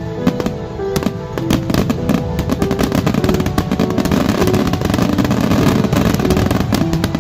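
Fireworks going off in rapid succession, many sharp bangs that thicken into a dense crackle in the middle, with music playing held notes underneath.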